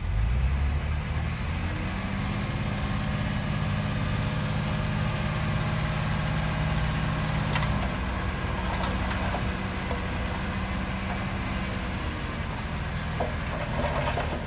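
Heavy diesel engine of earthmoving machinery running steadily, its speed rising about a second in and then holding, with a few short knocks near the end.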